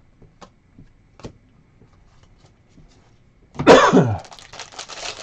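A man coughs once, loudly, about three and a half seconds in, then crinkling follows. Before the cough there are only a few faint clicks.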